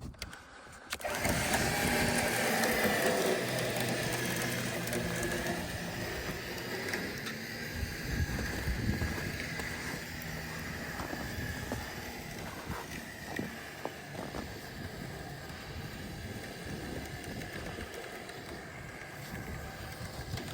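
Truck engine running steadily under a high, steady whine. It comes in suddenly about a second in and slowly eases in level.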